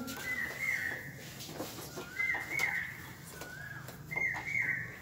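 A bird calling three times, each call a short lower note stepping up to a higher held note.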